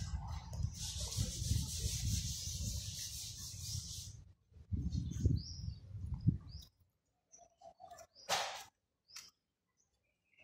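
Outdoor ambience: a low rumble and hiss on the microphone for the first four seconds or so, then near quiet broken by a few short, high bird chirps and a brief rustle.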